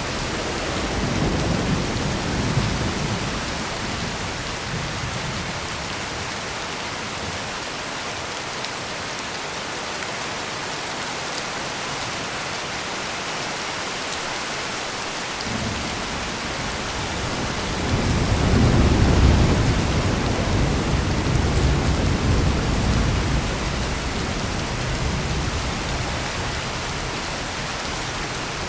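Heavy rain pouring steadily, with thunder rumbling: a short low rumble a second or two in, and a longer, louder roll about two-thirds of the way through that slowly fades.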